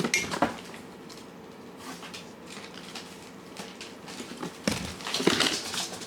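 Cats eating from dishes: clusters of small crunching and clicking sounds at the start and again about five seconds in, over a faint steady hum.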